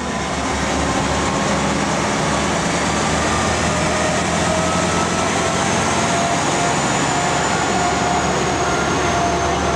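Diesel-hauled passenger train (locomotive D.4214) running at the station: a steady loud rumble of engine and wheels on rail, with thin high-pitched whines drifting slowly over it.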